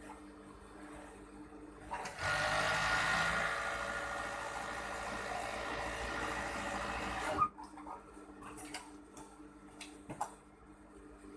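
Overdeck (coverstitch) sewing machine running in one steady burst of about five seconds, starting about two seconds in and stopping suddenly, followed by a few light clicks.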